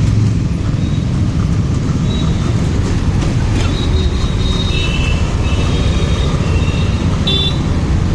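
Motorcycle riding through traffic: steady engine and road noise. A few short high-pitched tones come through from about halfway on.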